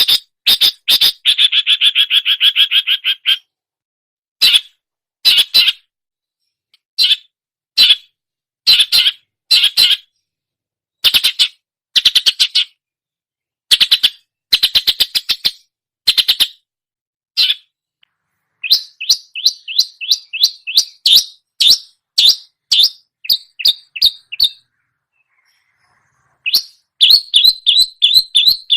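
Long-tailed shrike (cendet) singing its mimicking song: short bursts of harsh, chattering notes in phrases with pauses between them, turning to a fast run of separate notes about two-thirds of the way through, then a brief silence and another fast run near the end.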